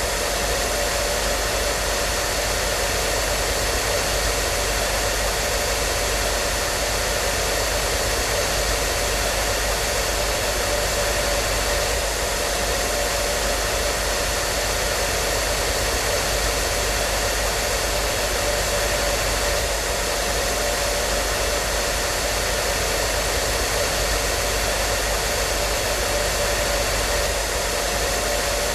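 Hair dryer running steadily: a constant rushing blow with a faint steady motor whine, unchanging throughout.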